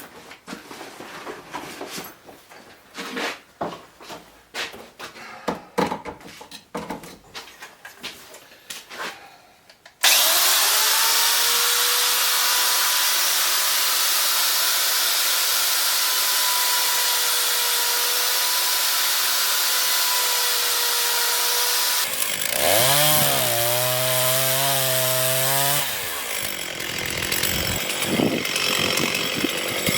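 Scattered clicks and knocks of handling, then from about ten seconds in a chainsaw running at high speed, cutting wood on a freshly touched-up chain. About two-thirds through, its pitch swings up and down for a few seconds as the engine load changes.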